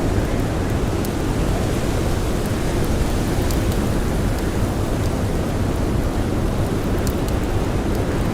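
Storm wind with blowing snow, a steady, deep and even rush, with a few faint crackles of a wood campfire scattered through it.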